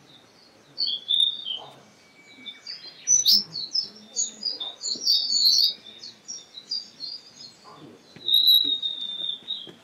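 Birdsong: a quick jumble of high chirps and twitters, ending in one long, high whistled note near the end.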